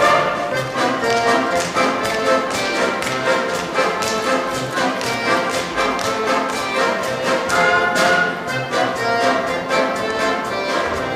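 A live orchestra with brass and strings plays a brisk instrumental passage, with sharp beats in an even rhythm.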